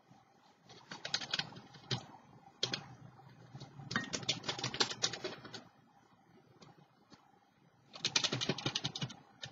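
Rapid light tapping and scratching on paper at a craft table, in three bursts with short pauses between, as sparkle is worked on by hand.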